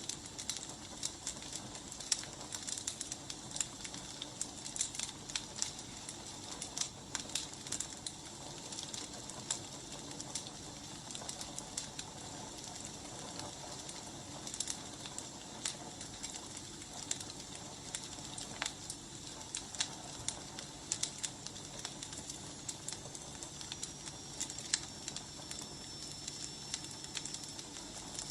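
Wood fire burning: a steady hiss with irregular sharp crackles and pops from the burning logs. A faint high whistle comes in over the last few seconds.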